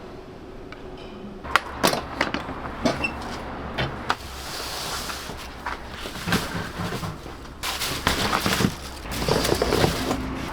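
Kitchen work sounds: irregular sharp knocks and clatter over a steady hiss. They start about a second and a half in and grow louder near the end.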